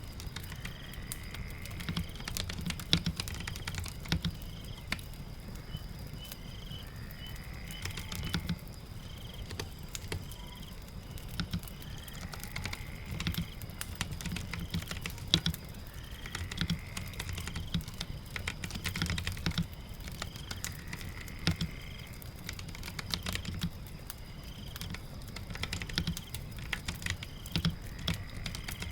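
Keyboard typing, a continuous run of irregular keystroke clicks, over a steady bed of rain patter. Faint rising chirps recur every few seconds.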